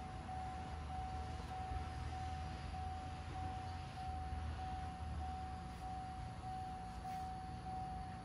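A 2012 Chevrolet Cruze engine with a newly installed Stigan aftermarket turbocharger idles steadily: a low rumble with a thin, steady whine over it.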